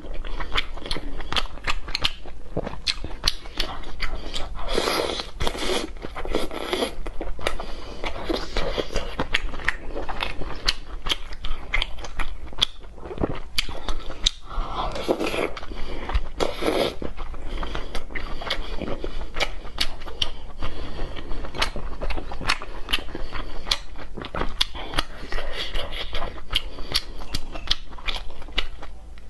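Chewing and biting of braised pork intestine, with many sharp, irregular mouth clicks and short bursts of chewing noise.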